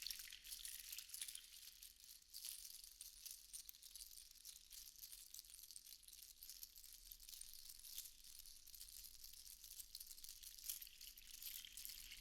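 Seashells rattling against one another in a continuous dense patter of tiny, high clicks, easing off a little through the middle.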